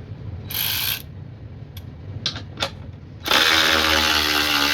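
A cordless power tool on a DeWalt 20V battery runs at steady speed for about a second and a half, starting around three seconds in. Before that come a short handling rustle and a few light clicks.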